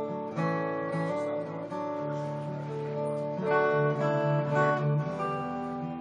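Solo acoustic guitar playing an instrumental piece, its notes and chords ringing and changing about once a second.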